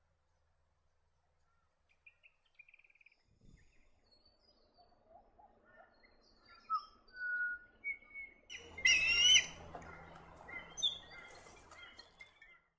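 Wild birds calling: scattered faint chirps and short whistles, then one louder wavering whistled call about nine seconds in.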